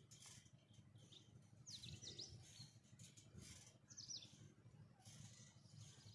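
Near silence outdoors, with faint high bird chirps in two quick clusters, about two seconds in and again about four seconds in.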